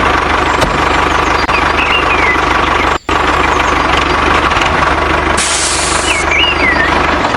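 Small motor of a miniature tractor running steadily with a fine low pulsing, broken by a brief cut about three seconds in. Two short warbling chirps sound in the background.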